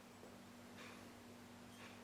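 Near silence: room tone with a faint steady hum and a couple of faint, brief scratches.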